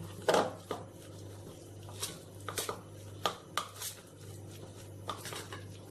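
A spoon stirring a thick, coarse chana dal paste in a bowl, with irregular clinks and scrapes of metal against the bowl.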